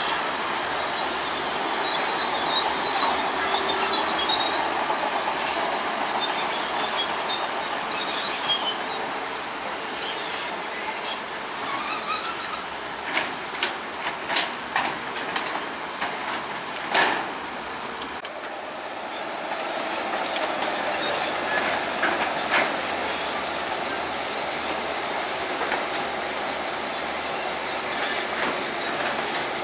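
Bulldozer working: a steady machine drone with steel crawler tracks clanking, and a run of sharp metal clanks just before the middle, the loudest a little after it.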